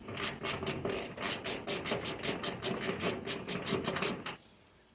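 Hand ratchet wrench clicking rapidly and evenly, about six clicks a second, as a firewall bolt is turned; it stops abruptly a little past four seconds in.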